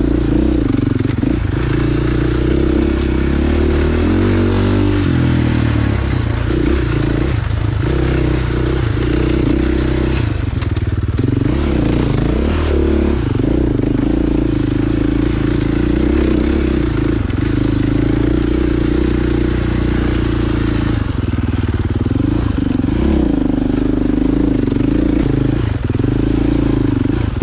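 Dirt bike engine running steadily under way, its pitch rising and falling briefly now and then as the throttle changes.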